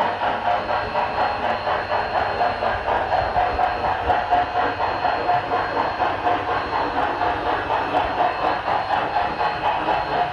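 Steam chuff from the LokSound 5 sound decoder and speaker of an HO scale model steam locomotive running on its layout, a steady, even beat of about three chuffs a second.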